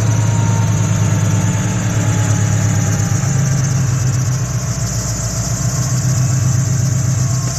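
Scion FR-S's FA20 flat-four, fitted with a Vortech supercharger and unequal-length headers, idling loudly and steadily with its boxer rumble. A faint squeal rides over it, which the owner puts down to the supercharger belt.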